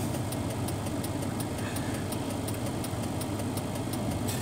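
Car engine idling, heard from inside the cabin while the car waits at a light: a steady low hum with a fast, even ticking over it.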